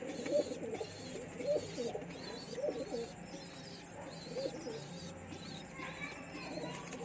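Domestic pigeon cooing repeatedly, one arching coo about every second.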